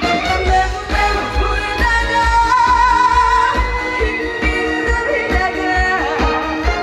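A woman singing a Korean trot song, holding notes with vibrato, over band backing with a steady beat.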